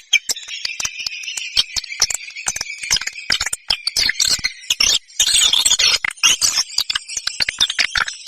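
Swiftlet lure call: rapid dry clicks mixed with high twittering chirps, with a thin held whistle over the first three seconds.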